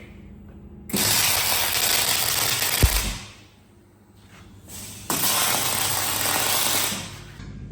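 MIG welding tacking steel brackets in place: two runs of about two seconds each of dense welding crackle and hiss, with a pause between them.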